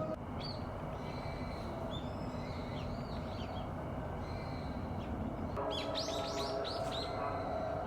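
Small wild birds chirping with short high calls, and a quick run of rising notes about two-thirds of the way in, over a steady low background rumble.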